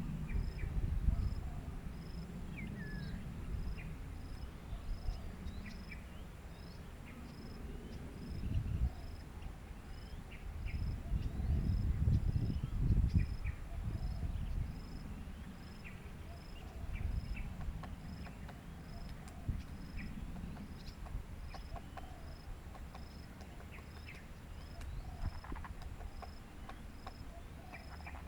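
Mangrove ambience: an insect chirping steadily at a high pitch, about once every 0.7 s, with scattered short bird chirps and a low rumble that swells twice.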